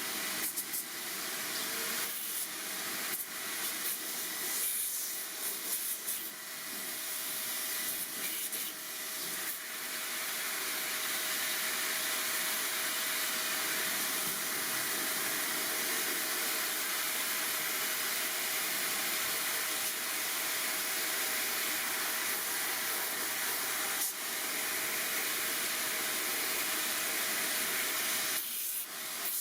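A high-pressure spray hissing: stop-start in short bursts over the first ten seconds or so, then held without a break until a short pause near the end.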